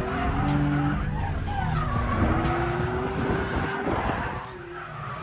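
Drift car engine revving hard through a slide, with tyres skidding and squealing. The engine pitch climbs, dips briefly near the end, then climbs again.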